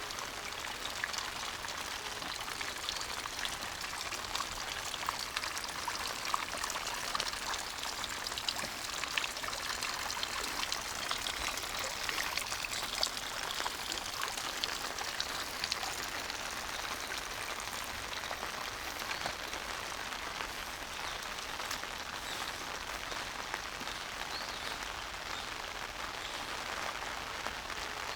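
Steady rain falling, with many separate drop ticks over an even hiss.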